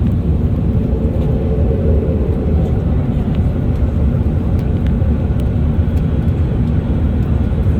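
Steady low rumble of an Airbus A380 in flight, heard from inside the passenger cabin: engine and airflow noise, with a few faint clicks over it.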